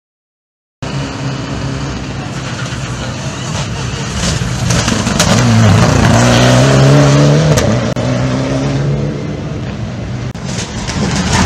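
Rally car engine at high revs, cutting in just under a second in and rising in pitch as the car accelerates, loudest around the middle, with gear-change dips after.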